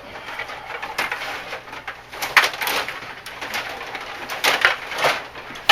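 Ice hockey play: skate blades scraping and hissing on the ice in short strokes, with the clack of sticks and puck and a sharp loud knock near the end.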